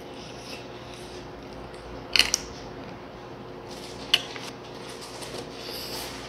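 Eating sounds of a person chewing fried chicken and licking sauce off his fingers, with a quick pair of sharp clicks about two seconds in and another just after four seconds.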